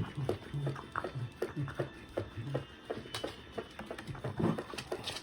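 Cockalier dogs play-fighting: a string of short, low play growls, with scattered clicks and scuffles of paws and bodies.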